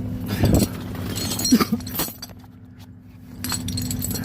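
Steel tow chain clinking and rattling against metal as it is hooked to a truck's frame, with a few heavier knocks, over the steady low hum of an idling truck engine.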